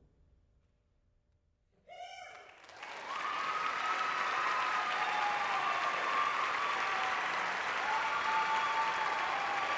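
After a short quiet, a single cheer about two seconds in, then an audience applauding steadily with cheering voices mixed in.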